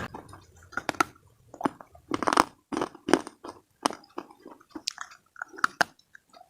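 A person biting and chewing hard, dry slate pieces: a run of irregular sharp crunches and gritty cracks, roughly two a second.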